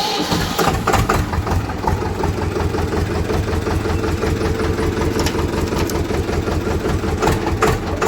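Tractor's diesel engine idling with an even, fast low pulse.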